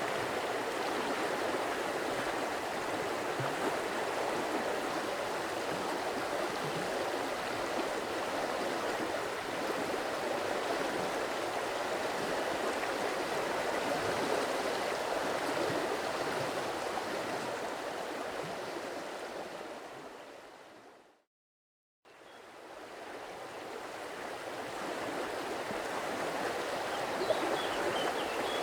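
Stream water running steadily. About two-thirds of the way through, the sound fades out to a brief silence and then fades back in. A few faint high chirps come near the end.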